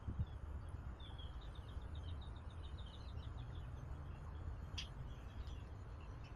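A small bird gives a quick run of about a dozen high chirps for two seconds, then a single sharp high note about five seconds in. A low steady rumble sits underneath.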